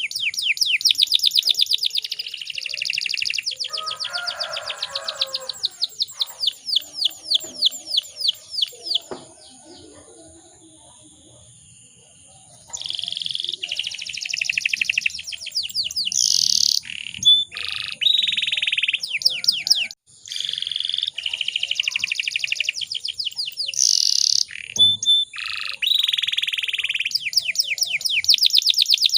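Canary singing: fast trills of repeated high chirps, dropping out for a couple of seconds about ten seconds in, then coming back with sharp calls and more trills.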